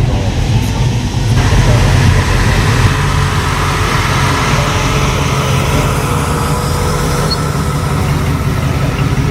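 A car engine running with a steady low rumble, joined about a second and a half in by a loud steady hiss.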